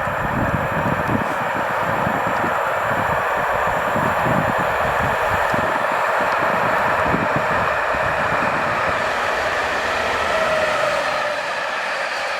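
Train running past on the railway: a loud, continuous rush of wheel-and-rail noise with a rough low rumble, and a faint whining tone sliding slightly down near the end.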